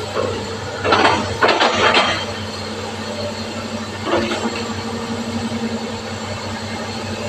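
Excavator's diesel engine running steadily, with louder bursts of noisy working sound about a second in and again around four seconds in.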